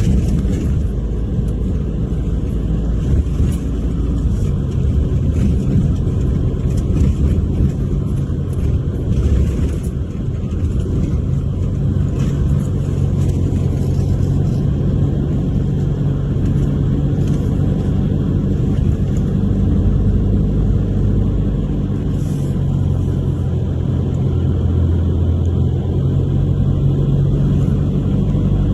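A car engine running steadily with a low rumble, its pitch shifting a little over time as if under way.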